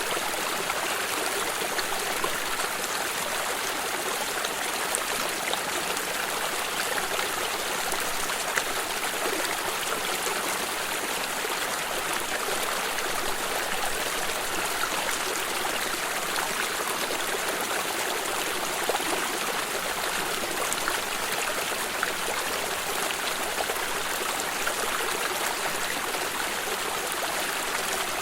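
Shallow water stream running and trickling over rocks, a steady rush of water with small splashes and gurgles.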